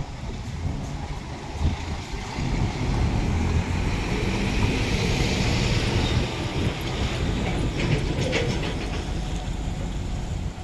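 Container truck's diesel engine running steadily, with a hiss that swells and fades through the middle and a few short clanks or ticks about eight seconds in.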